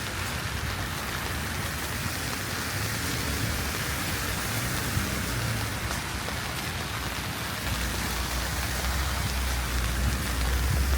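Steady hiss of wet snow and sleet falling on a city street, with a low rumble coming in about eight seconds in.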